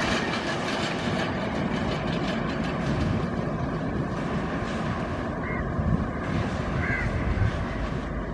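Express train of LHB coaches rolling past, a steady rumble with wheel clatter over the rail joints. A crow caws twice in the second half.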